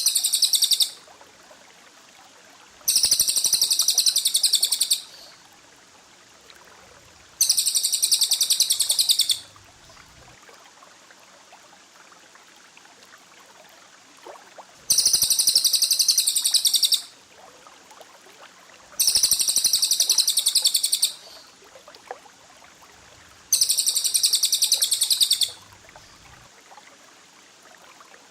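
Songbird trilling in dense, rapid-fire high-pitched bursts about two seconds long: a burst ending just after the start, then five more with short pauses and one longer gap midway. This is a masteran recording of 'tembakan rapat' song, the fast close-packed trill that cage birds are trained to copy.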